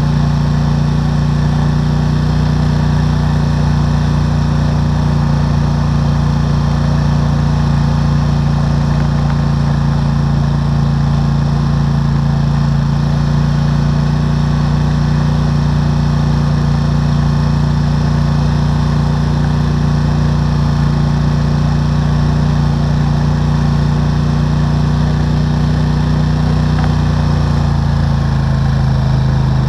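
ATV engine running steadily while riding, loud and close; its pitch drops slightly near the end.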